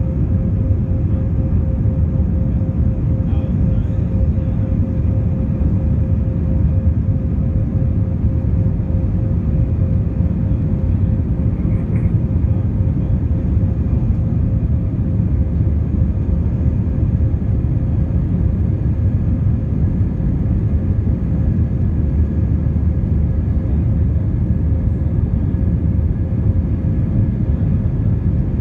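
Airliner's jet engines running at takeoff or climb power: a steady low rumble with a constant droning tone.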